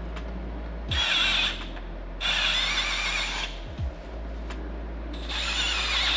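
Power drill boring out the stripped coil pack mounting holes on a 1JZ engine, to take helicoil thread inserts. It runs in three bursts with a high whine from the bit cutting metal: a short one about a second in, a longer one, and a third starting near the end. Faint clicks come in the pauses.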